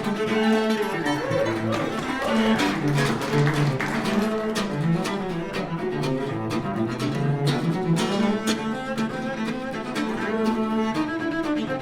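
Cello and mandolin duo playing: a bowed cello line with quick picked mandolin notes over it.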